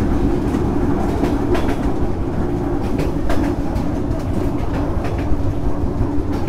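Vietnam Railways SE19 passenger train running, heard from on board: a steady rumble of wheels on rail with irregular clicks and knocks from the track.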